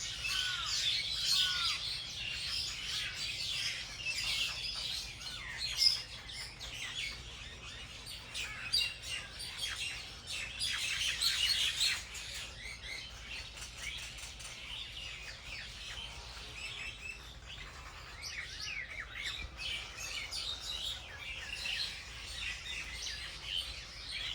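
Small birds chirping and twittering together, a dense, overlapping run of quick high chirps. It is busiest and loudest through the first dozen seconds, then thins to a softer chatter.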